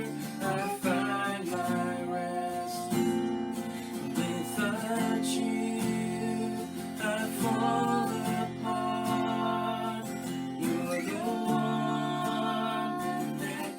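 Worship song: acoustic guitar strummed under a singing voice.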